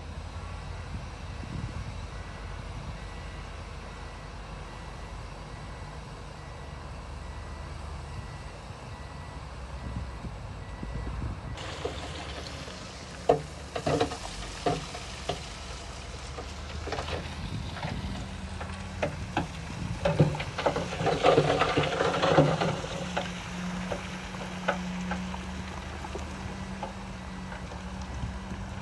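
Heavy diesel earthmoving machinery running with a steady low rumble. About a third of the way in the sound changes suddenly to a run of knocks, clanks and rattling over a steady engine tone, loudest a little past the two-thirds mark.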